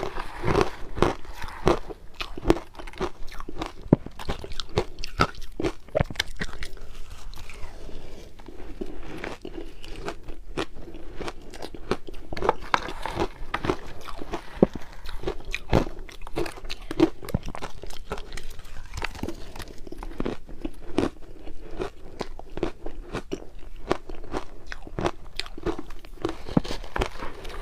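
Close-up crunching of ice being bitten and chewed, a rapid, irregular run of sharp crunches.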